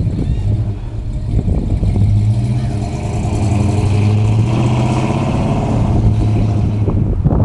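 Buick Skylark's engine pulling the car away under acceleration, a steady low exhaust note that grows louder about two seconds in and holds.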